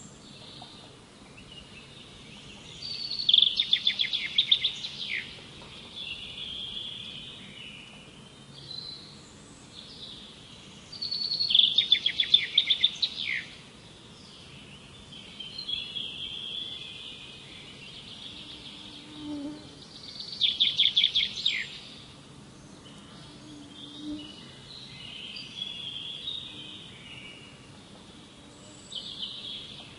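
Wild birds singing: one bird repeats a loud, fast trilled phrase three times, about eight seconds apart, with softer chirps and calls from other birds in between.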